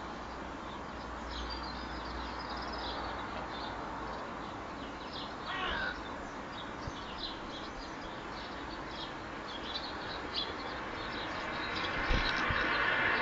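Sparrows chirping, a steady stream of short chirps with one longer falling call about five and a half seconds in, over a background rumble that grows louder near the end.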